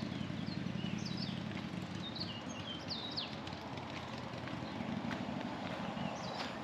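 Small birds chirping in quick, sharply rising and falling calls, most busily in the first half, over a steady low rumble.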